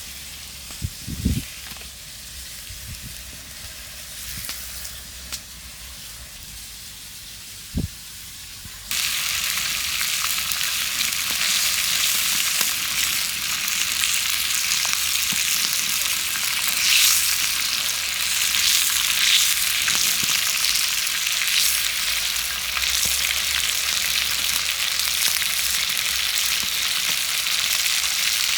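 Stuffed meat rolls frying in hot oil over a wood fire, a loud steady sizzle that starts suddenly about nine seconds in. Before it there is a quieter stretch with a couple of low knocks.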